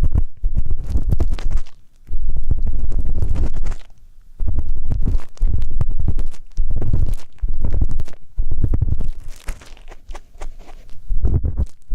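An ear pick scraping and rubbing close to the microphone, in irregular strokes of about one to two seconds with short pauses between them, heavy in low rumble.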